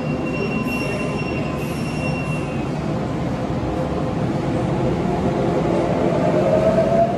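Electric commuter train running along an underground station platform, its wheels and running gear rumbling, with a thin high squeal in the first couple of seconds and a whine that rises in pitch near the end.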